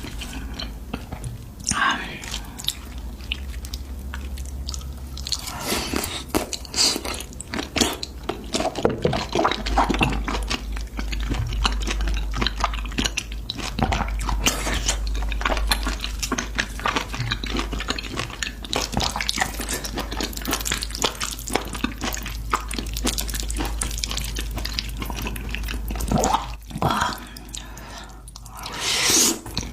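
Close-miked eating of spicy noodles with beef intestines: wet chewing and biting with many small, irregular mouth clicks.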